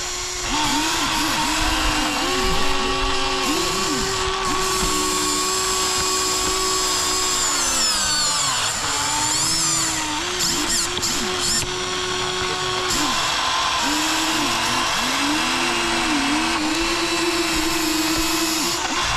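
Small electric gear motors of a Huina 1593 RC excavator whining as it works. The pitch dips and climbs back again and again as the motors take load and ease off, with one long slow drop and recovery about halfway through.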